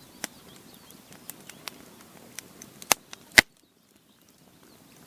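Faint bird chirps and scattered small clicks over a low outdoor background, then two sharp cracks about three seconds in, the second the louder.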